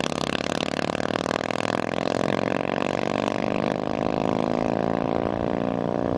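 Land-speed race vehicle's engine running loud and steady, its pitch falling slowly through the second half.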